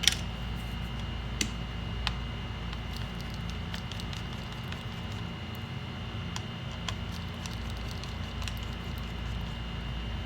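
Scattered small clicks and taps of tools and parts being handled during laptop disassembly, the loudest right at the start, over a steady low hum and a faint high whine.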